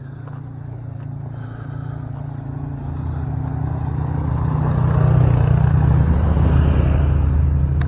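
A tour vehicle's engine running as it approaches and drives past, growing steadily louder to a peak about five seconds in, then easing slightly.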